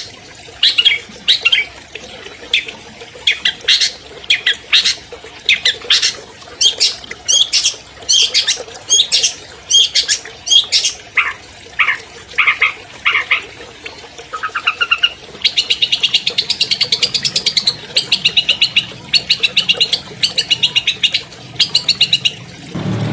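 Long-tailed shrike (cendet) singing: a run of short, harsh, sharp notes, then from about halfway through fast rattling trills repeated in phrases.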